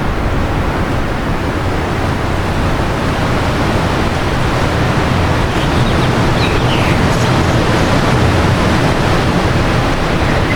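Wind blowing steadily and strongly, a dense rushing noise strongest in the low end, with a few faint bird chirps about six to seven seconds in.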